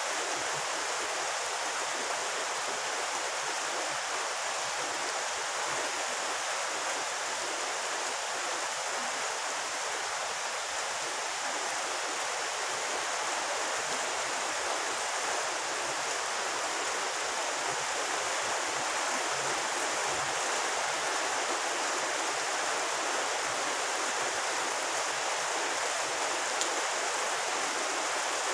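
Rain falling steadily on a pond's surface, an even hiss that holds at the same level throughout.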